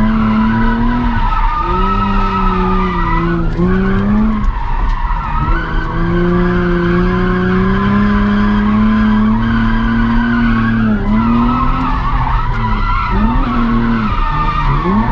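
A drift car's engine holding steady revs while its tyres squeal and skid through a slide. The revs dip briefly several times as the throttle is lifted and fed back in.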